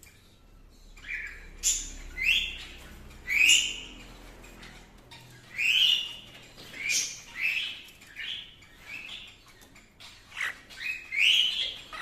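Cockatiels calling: a string of about a dozen short rising-and-falling chirping calls coming in loose clusters, a few standing out louder than the rest.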